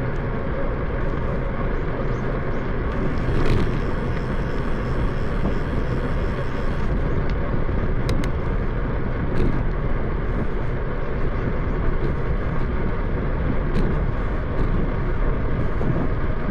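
Steady wind and road noise on the microphone of a camera riding along on a moving bicycle, with a few faint ticks.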